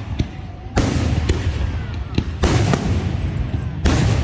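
Fireworks going off: a few sharp cracks and three loud bursts about a second and a half apart, each followed by a second or more of hiss.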